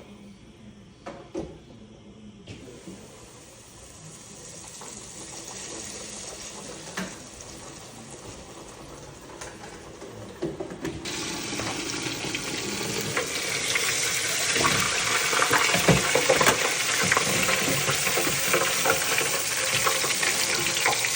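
Chicken cutlets deep frying in hot oil: a steady sizzle that grows louder, stepping up sharply about halfway through.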